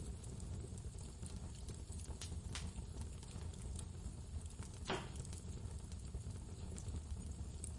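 Wood fire crackling, with scattered sharp pops (the loudest about halfway through), over a steady low rumble of storm wind.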